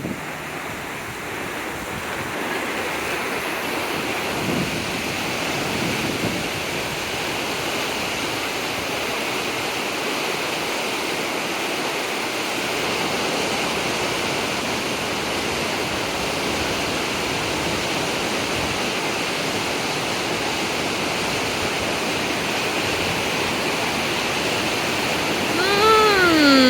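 Steady rushing of fast-flowing floodwater in the Brisbane River. Near the end a loud pitched call slides down in pitch over about a second.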